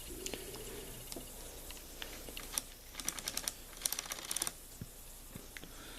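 Faint light clicking and tapping in two short clusters near the middle, with a few scattered single ticks: small handling noises, not an engine running.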